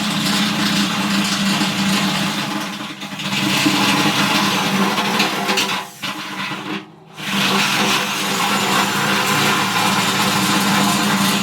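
Hand-held power drill running under load as its bit enlarges a hole in sheet metal. It stops briefly about six seconds in, then runs again.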